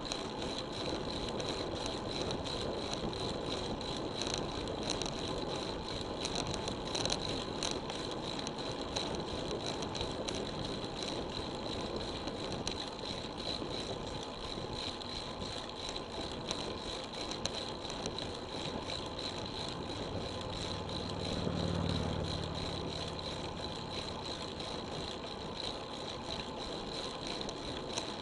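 Road bicycle riding along: steady wind and tyre noise with light rattling. About three quarters of the way through, a motor vehicle's engine swells and fades as it passes.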